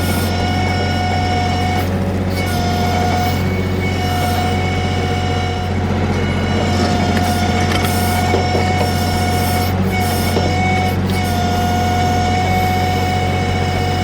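Kioti CK3510SE compact tractor's diesel engine running steadily at working revs while the KB2475 backhoe digs, with a hydraulic whine that rises and drops away every second or two as the controls are worked.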